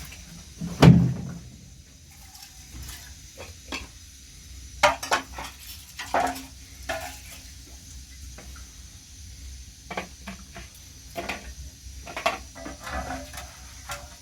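Scattered knocks and clinks of objects being handled, some with a brief ring, and one louder thump about a second in.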